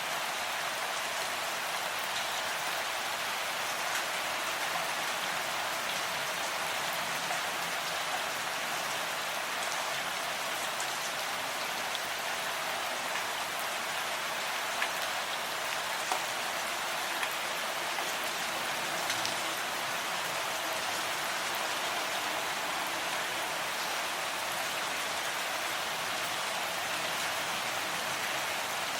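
Steady rain falling, an even hiss with scattered drops ticking through it and a few louder drop hits just past the middle.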